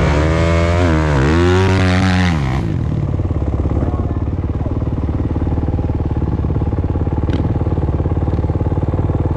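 Motocross bike engine revving up and down, its pitch dipping and climbing again, for the first two and a half seconds, then running steadily at low revs.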